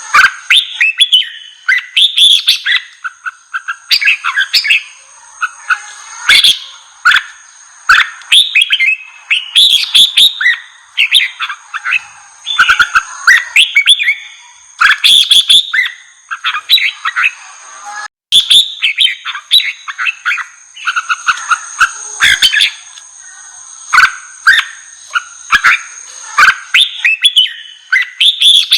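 Red-whiskered bulbuls singing in quick, loud, repeated phrases, the fired-up competitive song used to rouse young caged bulbuls. Two steady high-pitched tones run under the song, and the sound breaks off for an instant about two-thirds of the way through.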